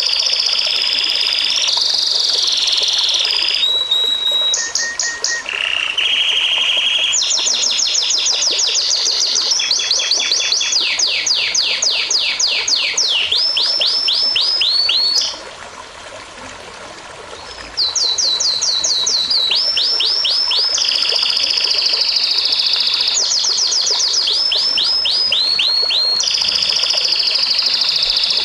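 A songbird singing a long, varied song of fast trills and runs of quick, repeated downsweeping notes, broken by a pause of about two seconds midway.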